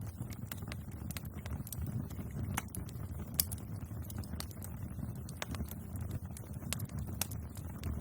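Bonfire burning with a steady low rumble of flames and irregular sharp crackles and pops of wood, one louder pop about three and a half seconds in.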